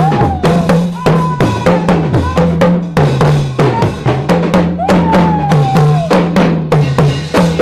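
Live gospel band playing an upbeat groove with no singing: a drum kit keeps a fast steady beat over a stepping bass line, with a few long held higher notes.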